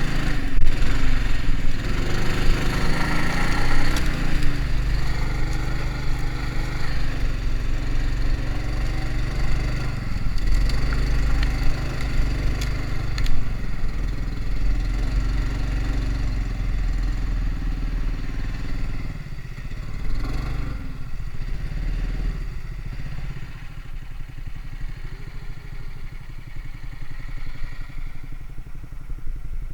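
Engine of a homemade karakat all-terrain vehicle running under load, its pitch dipping and recovering about ten and twenty seconds in, then running quieter toward the end.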